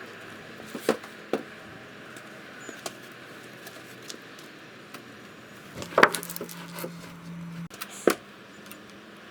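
Scattered sharp knocks of wooden boards being handled and fitted, the loudest about six seconds in, followed by a short steady low hum.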